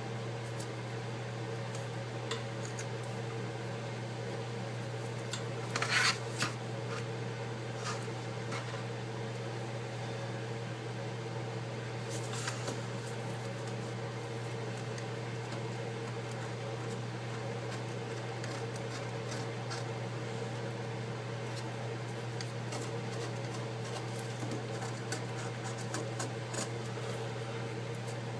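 Scattered light clicks and taps of an iPad's aluminium frame and small tools being handled on a workbench, loudest about six seconds in and again near twelve seconds, over a steady low electrical hum.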